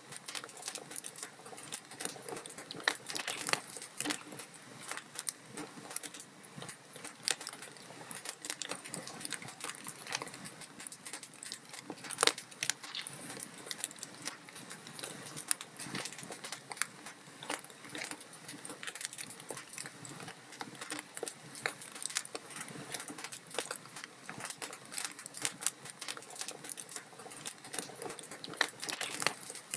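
Wood logs burning in a fireplace, crackling and popping irregularly over a soft hiss, with a few louder pops about three, seven and twelve seconds in.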